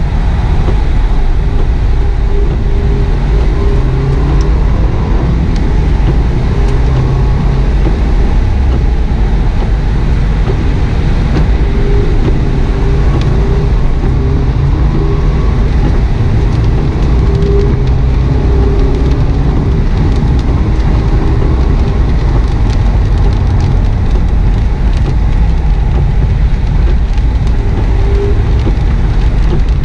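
2009 Subaru WRX S flat-four engine heard from inside the cabin, pulling hard up through the revs and easing off for a corner. Under it runs a steady low rumble of tyre and road noise on wet tarmac.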